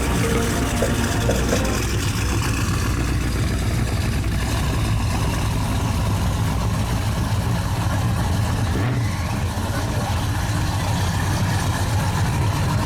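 Drag-racing vehicle engine idling steadily with a low rumble.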